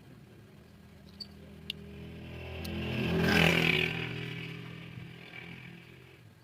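A motor vehicle's engine passing by, growing louder to a peak about three and a half seconds in and then fading away.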